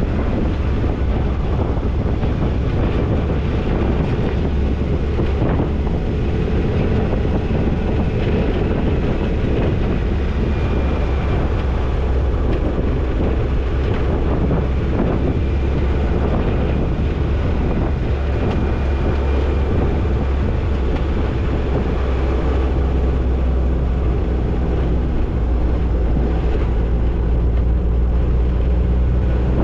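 Toyota Tercel 4WD wagon's four-cylinder engine running steadily as it drives a dirt trail, under a heavy low rumble of road and wind noise on the microphone.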